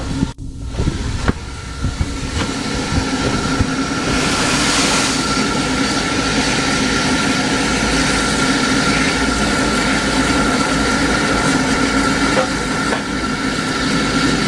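Heritage train running, heard from aboard a coach: a steady rumble with a droning tone, and a short hiss about four seconds in.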